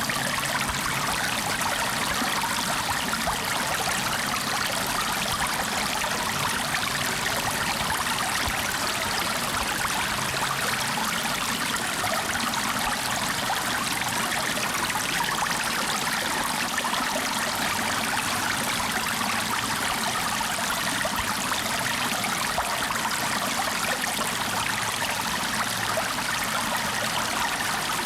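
Flowing water running steadily: an even, unbroken rushing hiss, mostly in the upper range, with no splashes or breaks.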